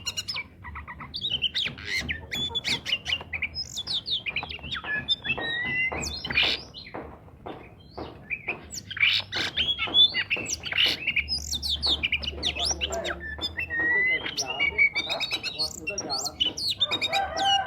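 Oriental magpie-robin singing vigorously: a continuous, varied run of rapid whistled notes, slurred glides and harsh chattering calls.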